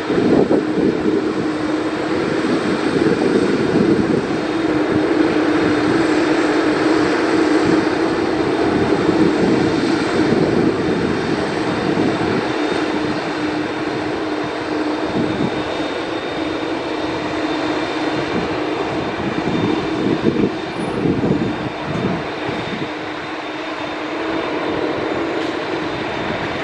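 Jet engines of a FedEx McDonnell Douglas MD-11F freighter, a steady heavy rush with a held droning tone that eases slightly near the end.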